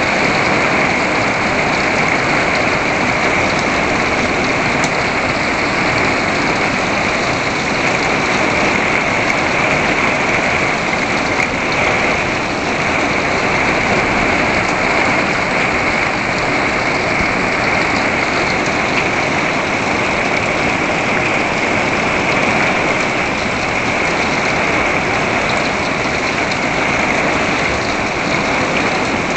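Heavy rain falling steadily onto a wooden deck and the yard beyond: a loud, even hiss with no letup.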